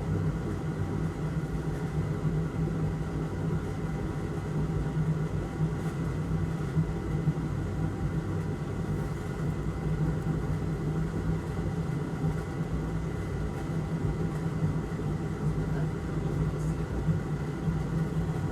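Steady low hum of a small electric fan or blower motor on a soldering and rework bench, with a faint high whine running over it and no change throughout.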